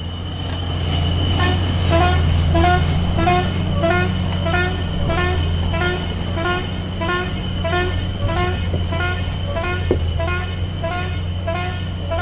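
Heavy diesel truck engine running steadily under load on a steep climb, with a short rising chirp or beep repeating about twice a second over it.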